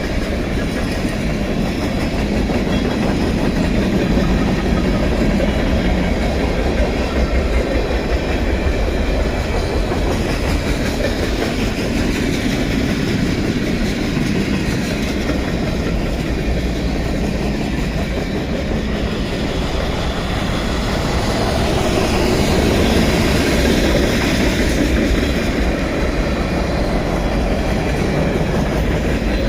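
A train's cars rolling steadily past, wheels running on the rails.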